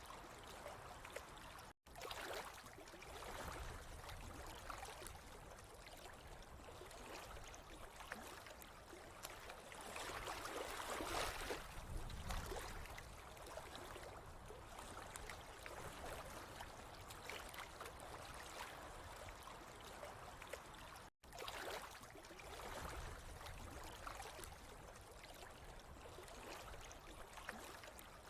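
Water trickling and gurgling steadily. It swells a little partway through and cuts out for an instant twice.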